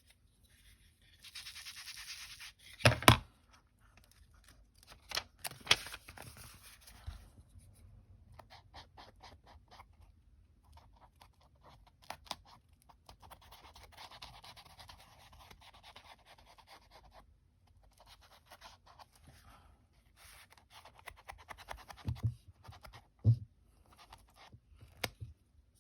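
Distress Oxide ink being rubbed onto the edges of paper: stretches of dry, scratchy rubbing with a few sharp knocks, the loudest about three seconds in and again near the end.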